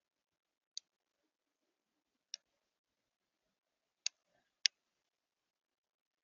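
Birds pecking at a feeder: four sharp, isolated clicks of beaks striking seed and the feeder, the last two the loudest.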